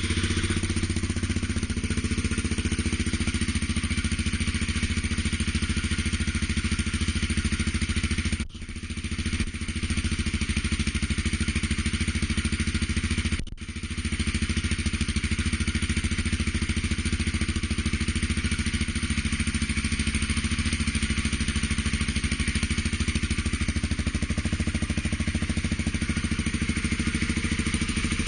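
Motorcycle engine running steadily at idle through a Staintune aftermarket exhaust, with two brief sudden drops in the sound about eight and thirteen seconds in.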